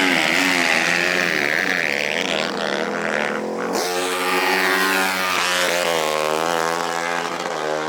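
Small off-road racing engine revving, its pitch wavering up and down as the throttle is worked.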